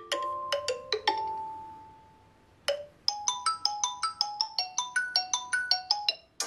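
Xiaomi POCO M3 smartphone playing one of its preset ringtones: a quick melody of short pitched notes, one held note that fades away, then after a brief pause a fast run of notes at about five a second.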